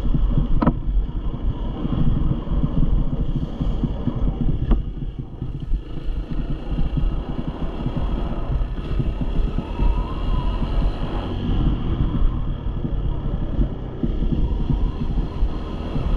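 Small dirt bike engine running, mixed with heavy wind rumble on the microphone, with a few brief clicks or knocks.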